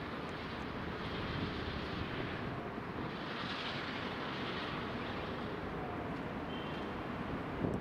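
Passenger train running on the track: a steady rumble and rush of wheels on rails that swells and eases, with a brief high squeal about six and a half seconds in.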